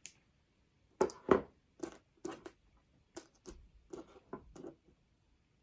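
Pliers and sterling silver jump rings handled at the work surface: an irregular run of small clicks and taps, the loudest a little after a second in.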